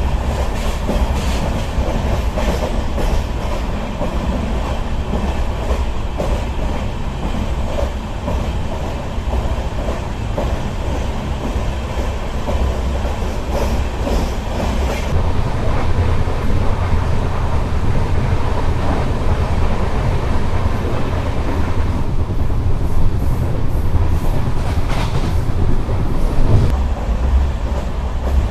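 Indian Railways passenger train running along the track: a steady rumble of wheels on rails, with the clickety-clack of the wheels over the rail joints.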